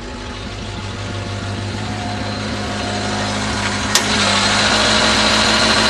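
1983 Toyota Tercel wagon's carbureted four-cylinder engine idling after a cold start, growing steadily louder, with a sharp click about four seconds in.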